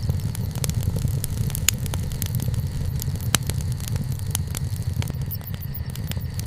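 Wood fire crackling, with frequent small pops and two sharper snaps about a second and a half and three seconds in, over a steady low rumble.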